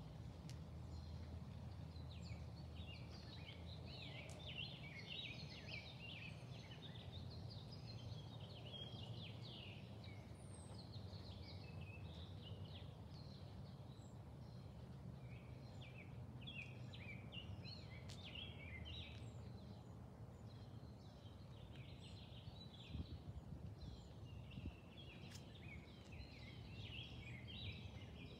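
Faint outdoor ambience of several birds singing, many short chirps overlapping, over a low steady hum.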